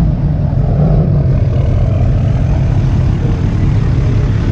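A vehicle engine running with a steady low drone, with no change in pitch or level.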